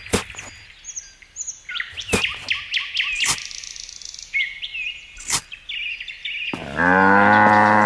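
Small birds chirping and twittering, with a few sharp clicks. Near the end comes a loud, drawn-out call held at one steady pitch for over a second, like a voice or an animal's call.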